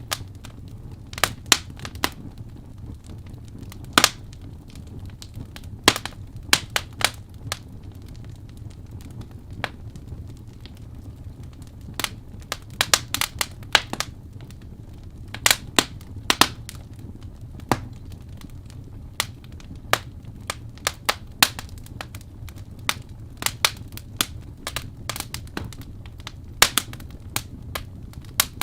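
Wood fire burning in a fireplace: burning logs crackling with irregular sharp pops, some loud and several in quick runs, over a low steady rumble.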